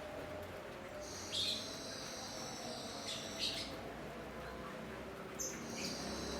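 Cucak cungkok singing: high, clear notes in two phrases, the first starting about a second in and the second near the end, over a faint steady low hum.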